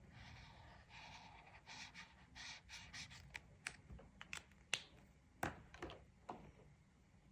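Faint scratchy strokes of a colouring tool on a paper page, a few to a second, then a quick run of sharp little taps and clicks.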